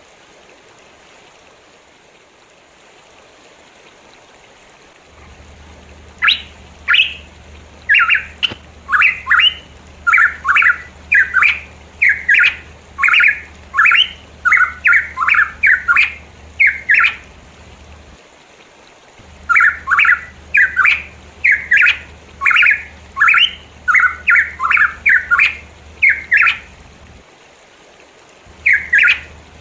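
Pitohui calling a long series of short, loud notes, about two a second, each sliding in pitch. The notes come in runs broken by short pauses, over a low steady hum. Before the calling starts, there are a few seconds of faint even rushing, like a stream.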